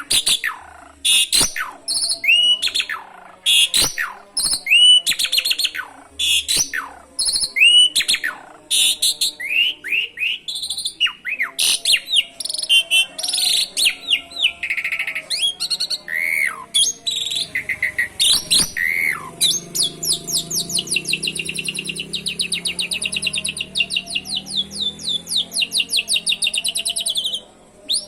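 Asian pied starling (jalak suren) singing: a varied string of sharp chirps and falling whistles, then from about two-thirds in a long, rapid canary-like trill lasting several seconds, mimicry of the canary song it has learned.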